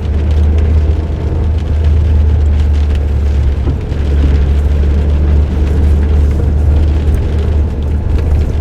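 Suzuki Jimny JB23W driving, its 660 cc turbocharged three-cylinder engine and aftermarket muffler giving a steady, loud low rumble, mixed with road noise, as picked up by an in-car drive recorder.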